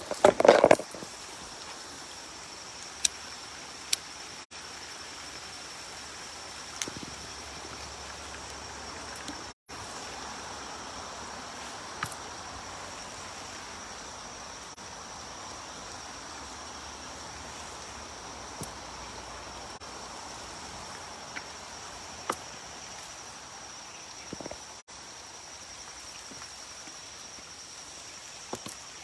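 Steady chorus of insects, a continuous high-pitched buzz, with scattered short clicks and snaps of footsteps on a trail; a loud crunching scuff right at the start.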